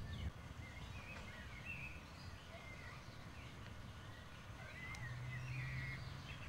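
Faint outdoor background with small birds chirping now and then. A low steady hum comes in about five seconds in.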